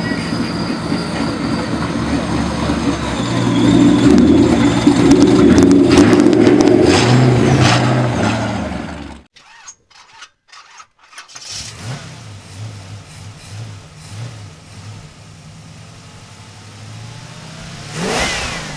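Car engine running and revving, loudest in the middle, then cutting off abruptly about nine seconds in. After a short gap with a few clicks, a quieter engine idles and gives a brief rising rev near the end.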